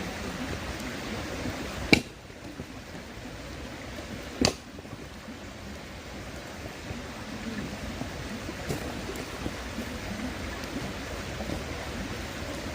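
Wood bonfire burning, with two sharp pops of the burning wood about two and a half seconds apart, over the steady rush of a river.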